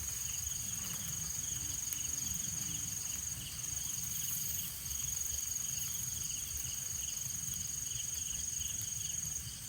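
Night insects trilling: one continuous high-pitched trill that drops out briefly a few times, over a fainter, faster pulsing chirr lower down.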